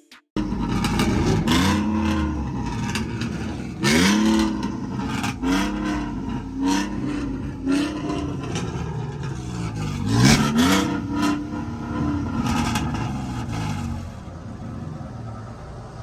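A truck engine revving up and falling back again and again, with the loudest pulls about four seconds in and about ten seconds in.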